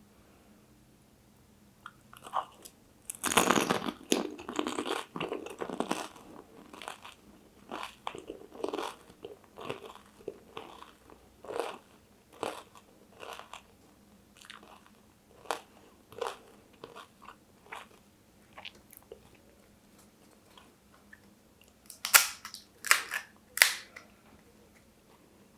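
Close-miked mouth sounds of pani puri being eaten: a long loud crunch as a crisp hollow puri is bitten and broken about three seconds in, then steady chewing. Near the end come three more loud crunches.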